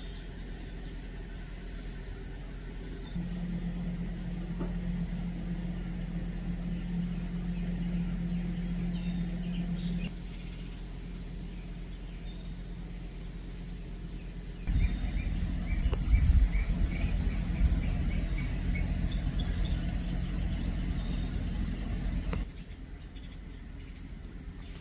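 Faint, short bird chirps over a steady low hum and rumble. The rumble gets louder and rougher partway through, then drops back suddenly near the end.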